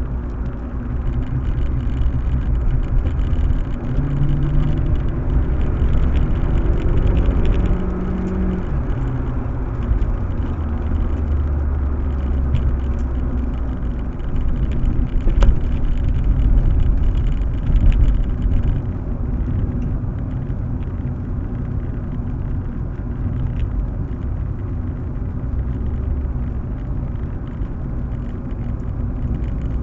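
Proton Waja CPS 1.6 car being driven, with a steady low rumble of engine and road noise. Between about four and eight seconds in, the engine note rises as the car accelerates, then drops away.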